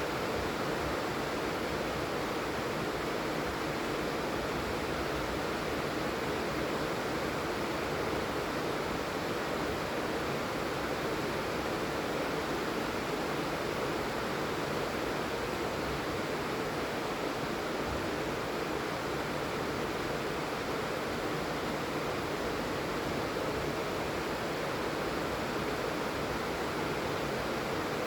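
Steady rain falling, an even wash of noise with no single drops or other events standing out.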